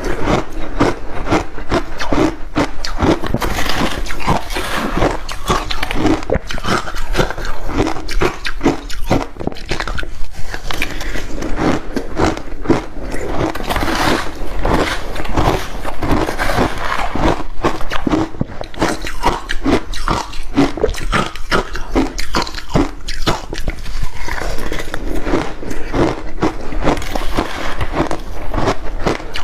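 Crushed ice mixed with passion fruit being bitten and chewed close to the microphone: a dense, continuous run of crunches, with a short lull about ten seconds in.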